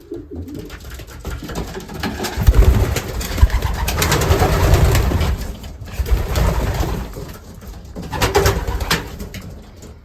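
Racing pigeons cooing in the loft, with a louder stretch of scuffling and flapping noise from about two and a half seconds in to about six seconds in.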